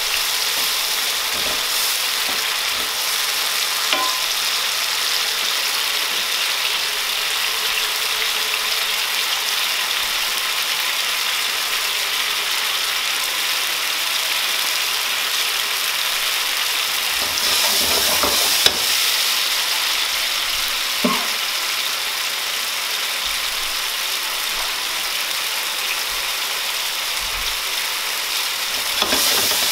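Sliced mushrooms and garlic sizzling in oil in a frying pan, a steady hiss throughout, with a few short knocks, the clearest about two-thirds of the way through.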